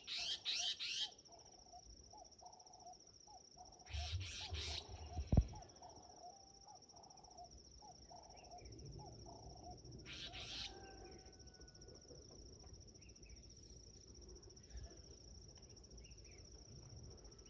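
Outdoor evening ambience: a steady high insect trill under short bursts of bird chirping, heard three times, with one sharp knock about five seconds in.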